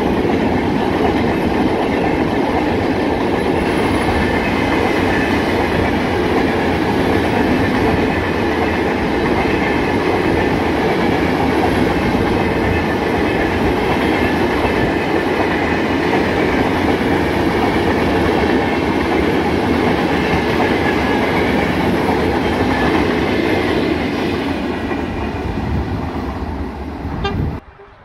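Empty freight flat wagons rolling past on the rails: a steady, loud wheel-and-rail rumble with clickety-clack from the wheels over the rail joints. It eases off near the end and then cuts off suddenly.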